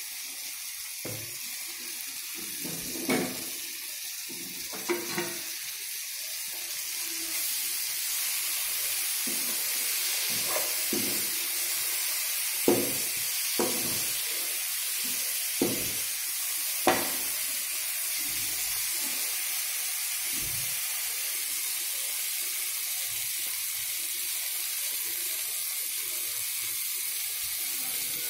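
Tomatoes and onions in spiced oil sizzling steadily in a wok-like pan, with short scrapes and knocks of the utensil against the pan as it is stirred. The sizzle grows louder about seven seconds in.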